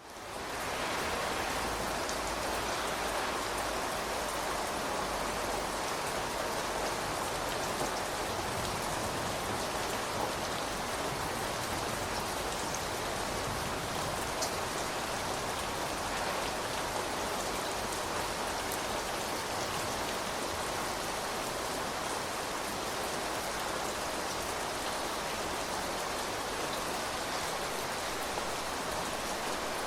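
Steady rain falling, a dense even hiss with scattered sharper drop ticks, fading up from silence in the first second.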